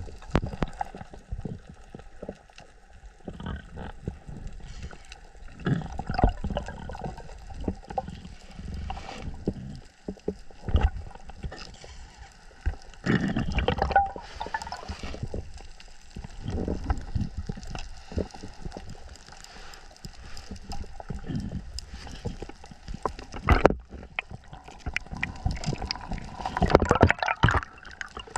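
Water gurgling and sloshing around an underwater camera as a diver swims, in uneven surges that come and go.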